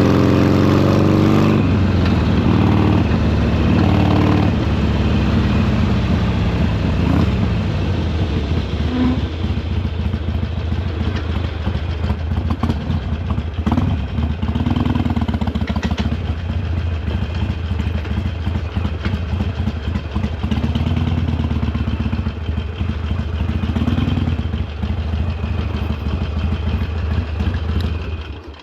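Harley-Davidson Sportster Iron 883's air-cooled V-twin running under way, the engine note falling in the first couple of seconds as it slows, then a steady low beat with small rises and falls as the throttle is worked. The sound falls away at the very end.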